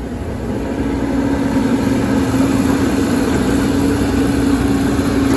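Excavator's diesel engine running steadily, with a held drone over a low rumble; it grows a little louder over the first two seconds.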